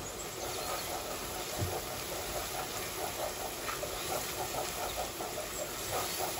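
Ground onion with turmeric frying in oil, a steady sizzle, while a wooden spatula stirs and scrapes the bottom of a nonstick pot in quick repeated strokes starting about half a second in.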